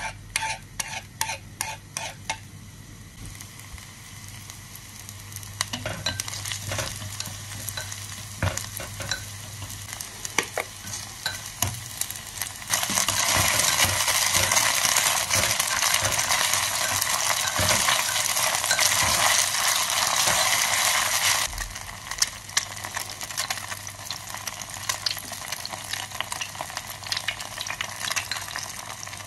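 Chopped garlic and scallion frying in hot oil in a clay pot while being stirred with chopsticks: sharp crackling at first, then a steady sizzle with scattered pops. The sizzle is much louder for about nine seconds in the middle.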